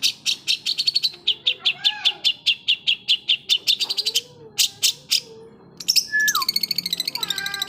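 Long-tailed shrike singing vigorously: a fast run of sharp, scratchy chips, about seven a second. The run breaks off briefly about five seconds in, and a short falling whistle follows. This is the cendet's mimicry-filled song.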